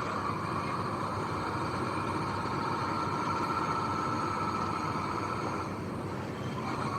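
Heavy construction machinery running, with a steady engine noise and a high whine that fades out about six seconds in.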